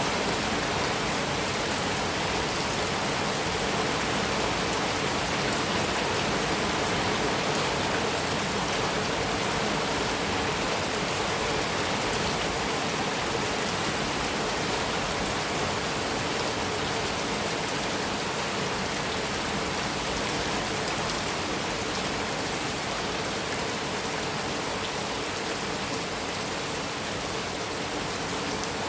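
Heavy rain falling steadily on a metal roof, a dense even hiss with no thunder.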